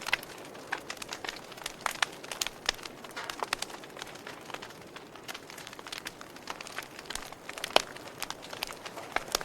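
Wood fire crackling: irregular sharp pops and snaps over a soft steady hiss, with one louder pop near the end.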